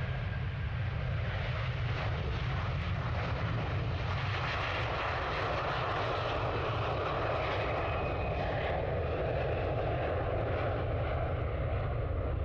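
Jet airliner's engines at takeoff power during the takeoff roll: a steady rumble and roar that grows a little stronger and brighter a few seconds in.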